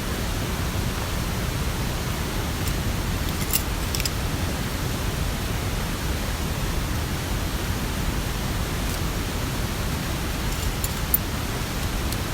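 Steady rushing noise of rain and mountain-stream water, with a few sharp ticks like drops striking near the microphone.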